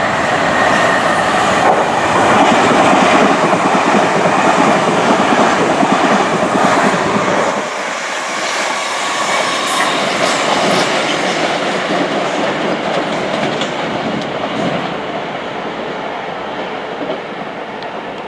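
A train running past on the track, loudest in the first seven seconds. The deep rumble drops away suddenly about seven and a half seconds in, and the rest of the noise then fades steadily.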